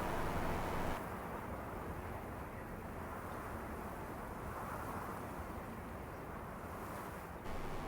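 Steady rushing noise of blizzard wind and driving snow. It turns duller and more muffled about a second in, then brightens again abruptly near the end.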